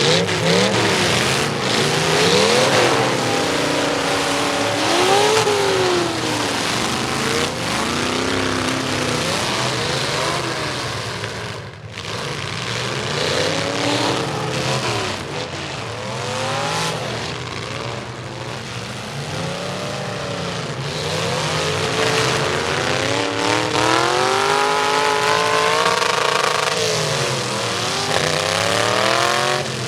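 Several demolition derby trucks' engines revving up and down at once, their pitches rising and falling over each other, with a brief drop in loudness about twelve seconds in.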